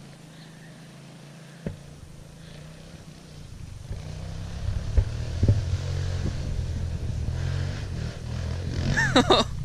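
Small motorcycle engine running, growing louder about four seconds in, with a sharp click early on and a couple of knocks along the way.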